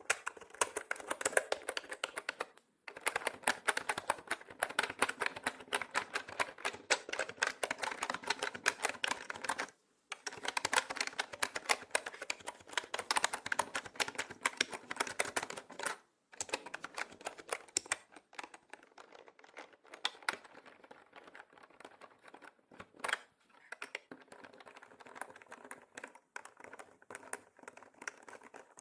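Fast typing on a mechanical keyboard: a dense run of key clicks with short pauses, growing sparser and quieter in the second half.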